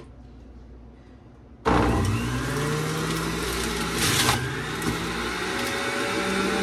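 QCEN wide-mouth centrifugal juicer switched on a little under two seconds in: the motor starts suddenly, its whine rises briefly and then runs steadily while apple, orange and watermelon pieces are pushed down the chute and shredded, with a louder grinding surge about four seconds in.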